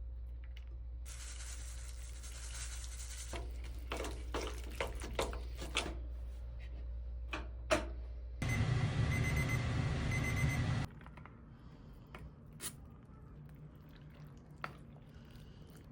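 Kitchen sounds during food preparation. A couple of seconds of running or pouring water come first, then a series of sharp clicks and taps. A loud noisy stretch of about two seconds follows, and then a low background hum cuts off.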